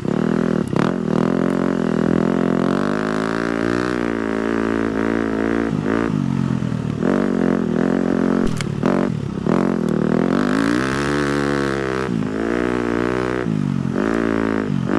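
A 250cc four-stroke single-cylinder dirt bike engine, its pitch rising and falling over and over as the throttle is worked on and off over rough ground. A few sharp knocks and clatter from the bike come through.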